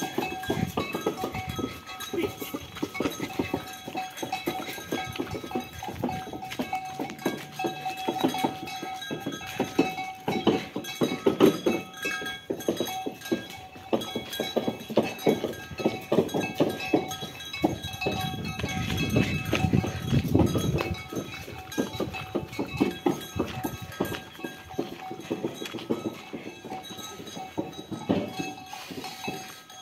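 Ox-drawn carts on the move: the oxen's hooves clopping on a hard road amid many irregular clicks and knocks, with a steady high ringing tone running underneath.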